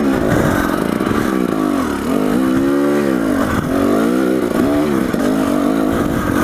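Dirt bike engine running under the rider, the revs rising and falling several times as the throttle is worked on rough trail.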